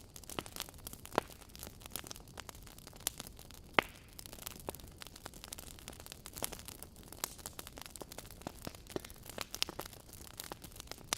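Wood fire burning in a fireplace, logs crackling with irregular sharp pops over a low hiss; the loudest pops come about a second in and near four seconds in.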